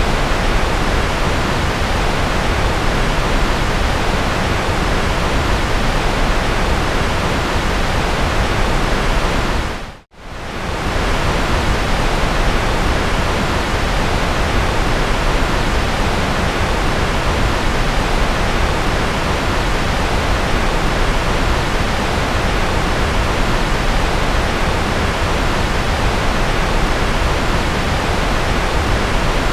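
Steady generated noise, an even hiss across all pitches with a little more weight in the lows, like pink noise. About ten seconds in it dips to silence for a split second and fades back up.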